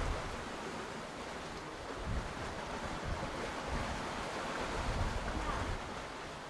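Wind buffeting the microphone over the rush of sea water along the hull of a sailing catamaran under way, with gusts swelling now and then.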